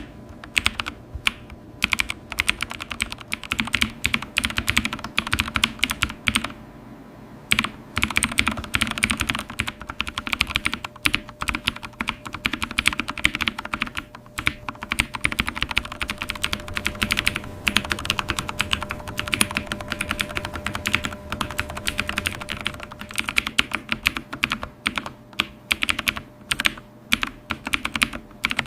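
Continuous fast typing on a computer keyboard: rapid key clicks, with a short pause about seven seconds in.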